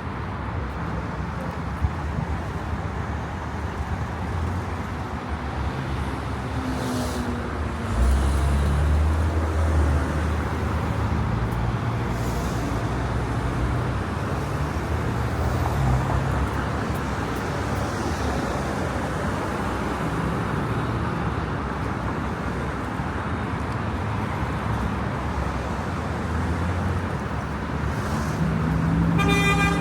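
City street ambience: steady road traffic with engines running, a louder low rumble setting in about eight seconds in. Near the end comes a short burst of rapid ticking.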